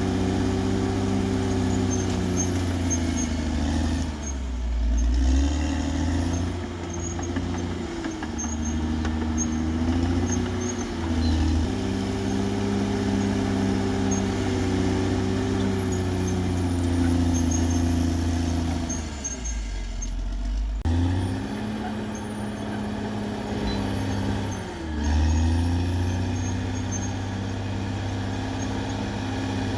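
Caterpillar D6R XL bulldozer's diesel engine running hard, its pitch sagging and recovering a few times as it takes load, with a faint high whine over it.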